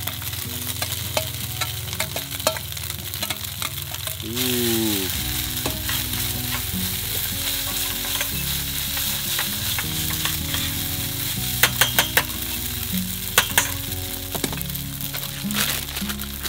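Fried rice with corned beef sizzling in a steel pan on a portable gas stove, with the scrapes and taps of a spoon stirring it. The sizzle grows louder about four seconds in, and a cluster of sharper spoon taps comes about two-thirds of the way through.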